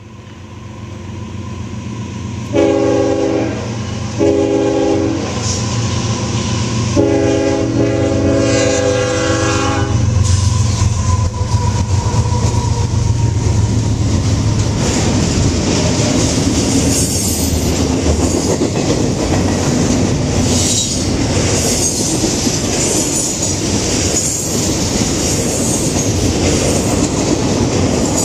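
CSX GE ES44AC diesel locomotive passing close by, sounding its air horn in two short blasts and one long one over the low rumble of its engine. Its double-stack intermodal cars then roll past with a steady clickety-clack of wheels on rail and now and then a high squeal.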